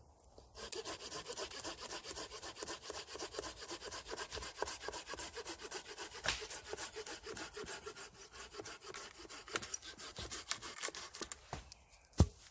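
Small folding hand saw cutting a dead branch for firewood, in quick, even strokes that stop shortly before the end. A single sharp crack follows near the end.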